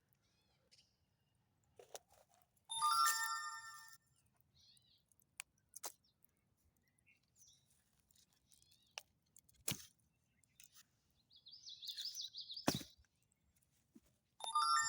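A bell-like ring of several clear tones, fading over about a second, sounds a few seconds in and again near the end. Between the rings come a few sharp clicks, and a short warbling bird call a couple of seconds before the end.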